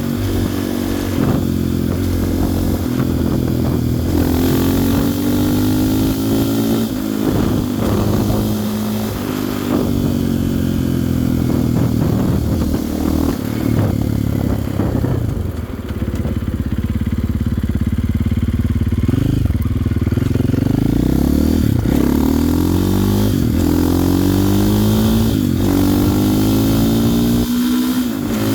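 GasGas ES500's 510 cc single-cylinder four-stroke engine accelerating hard, its pitch climbing through the revs and dropping back at each upshift, several times over. Near the middle it holds a steadier, lower note for a few seconds, then pulls up through the revs again.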